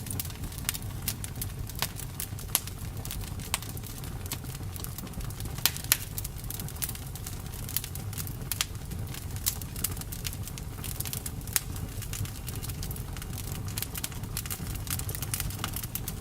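Campfire burning, with many sharp irregular crackles and pops from the wood over a steady low rumble of the flames; a few louder snaps stand out.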